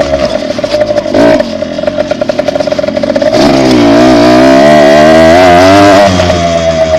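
Dirt bike engine running under the rider's throttle, with a quick blip about a second in, then opening up and holding a steadier pull for a couple of seconds before easing off near the end.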